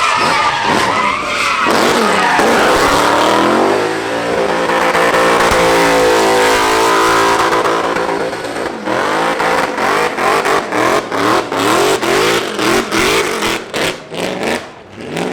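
Euro NASCAR race car's V8 engine revving hard with tyre squeal, then holding a steady high rev for a few seconds. In the second half the throttle is blipped in quick sharp bursts, about two a second.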